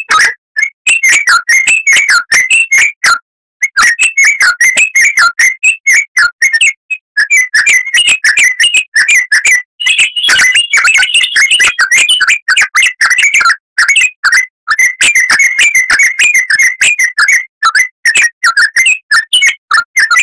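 Oriental magpie-robin (kacer) singing a fast, loud stream of sharp chattering and whistled notes, broken by a few brief pauses. The song climbs to a higher, denser phrase about halfway through.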